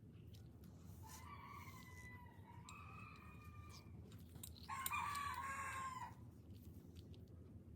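A rooster crowing twice in the background: a longer, fainter crow, then a louder, shorter one about four and a half seconds in.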